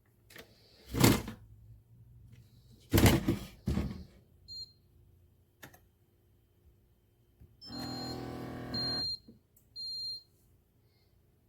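Instant Pot Solo single-serve coffee maker: two loud, short noisy bursts, then an electronic beep. About eight seconds in, its pump buzzes for about a second and a half with beeps over it, then one more beep. The owner suspects the pump has failed.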